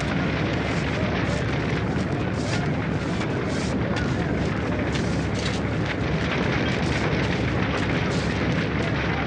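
Steady roar of a burning oil well fire, with irregular crackles through it.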